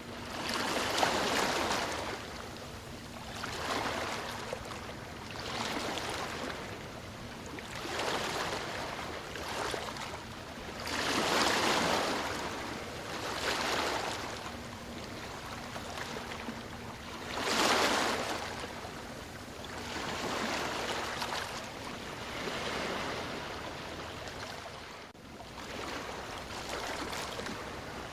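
Ocean waves breaking and washing up the shore, the surf rising and falling every two to three seconds, with a few louder breakers along the way.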